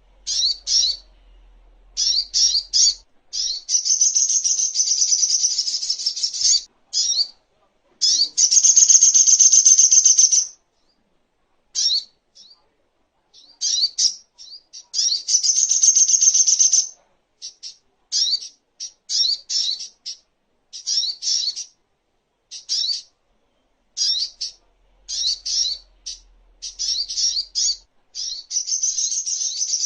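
Sogok ontong (songon) birdsong: a bird gives high, short repeated chirps, broken by rapid twittering trills that each last a few seconds.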